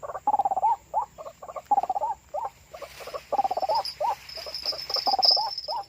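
White-breasted waterhen (ruak-ruak) calls used as the trapping lure: runs of short, repeated croaking notes, over and over. A faint high insect buzz joins in the second half.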